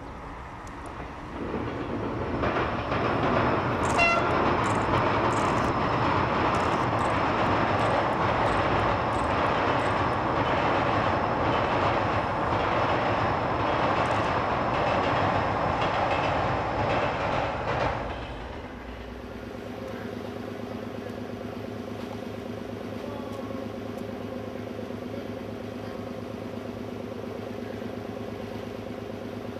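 Electric passenger train crossing a steel truss bridge at speed: it builds up over the first couple of seconds, then runs loud with a regular clatter of wheels over rail joints, and gives a short horn blast about four seconds in. Around eighteen seconds the train noise drops away suddenly, leaving a quieter steady hum.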